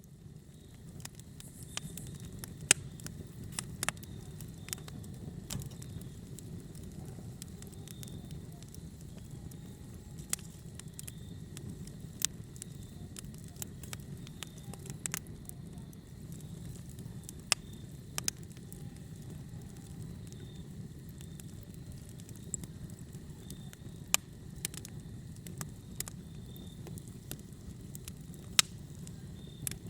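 Fire burning in a fireplace: a steady low rumble of flames with irregular crackles and sharp pops, a few of them much louder than the rest. The sound fades in from silence right at the start.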